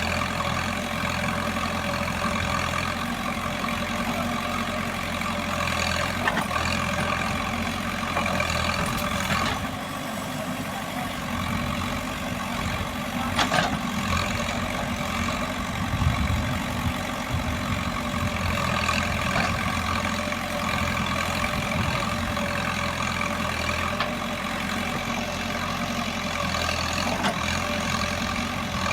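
Cat 424B2 backhoe loader's diesel engine running steadily while it loads a tipper truck, with a few short clanks scattered through.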